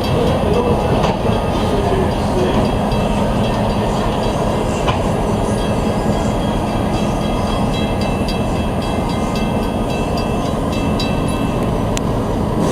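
Excursion train rolling past at a street crossing: a steady, loud rumble of wheels on rail with scattered sharp clicks, easing off slightly near the end.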